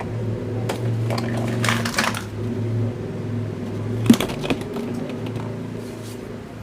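A small motor hums steadily, fading toward the end, with scattered clicks and knocks, the loudest a sharp knock about four seconds in.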